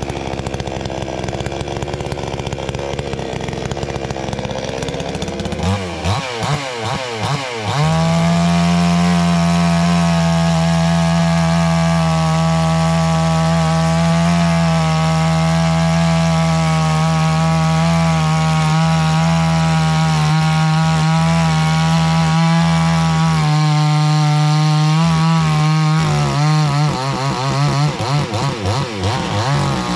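Two-stroke gas chainsaw running. The revs rise and fall over the first several seconds, then hold a steady high-pitched full-throttle whine for about fifteen seconds. Near the end they dip and waver again.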